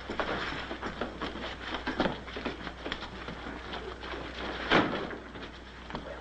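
Shuffling footsteps and scattered knocks of a scuffle, with one loud thump nearly five seconds in.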